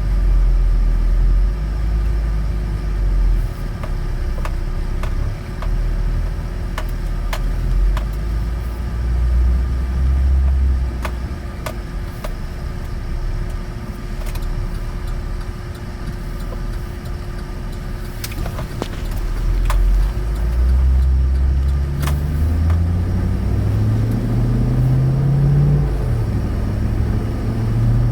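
2013 Chevrolet Avalanche's V8 engine and road rumble heard from inside the cab while driving; near the end the engine note climbs in steps as the automatic transmission works up through the gears under acceleration. Scattered light ticks sound over it.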